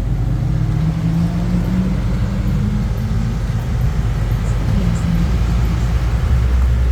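A car engine running close by: a steady low rumble, with a tone in it that rises gently over the first few seconds.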